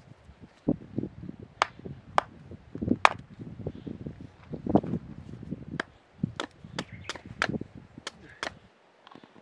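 A series of sharp, irregular knocks and taps, a hard tool or piece of wood striking, with duller thumps in between; the strikes thin out near the end.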